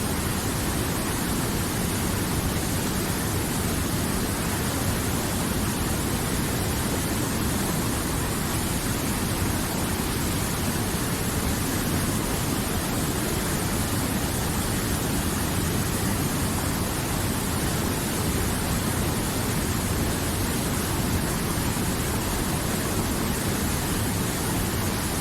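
River water flowing: a steady, even rushing with no change.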